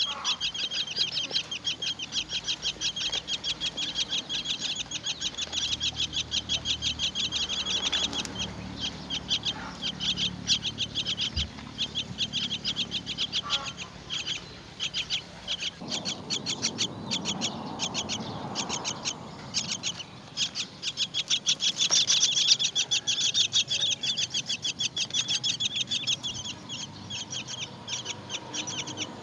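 Myna nestlings begging: a rapid, steady run of high-pitched calls, several a second, with a low rustle about halfway through.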